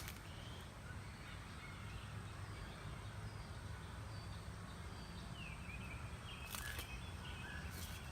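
Faint birdsong: scattered short chirps and a falling call, over a steady low outdoor rumble, with a few footsteps on the trail near the end.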